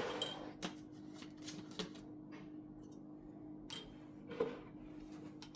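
Light, scattered clicks and knocks of kitchen items being handled, a handful of them spread unevenly, over a faint steady hum.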